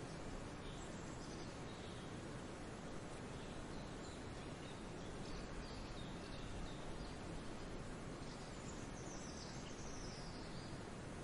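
Outdoor spring ambience: a steady background noise with small birds chirping faintly now and then, and one longer call that falls in pitch near the end.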